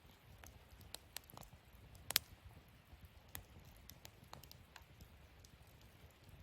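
Wood fire crackling: scattered sharp pops and snaps over a faint low rumble of the flames, with the loudest snap about two seconds in.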